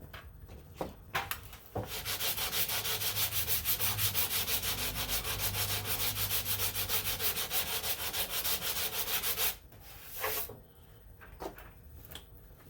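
Sanding block with 180-grit paper being worked back and forth over cured body filler, a rhythmic scraping at about four strokes a second, taking the filler down to 180 grit ready for spot putty. It starts after a few light knocks and stops abruptly near the three-quarter mark.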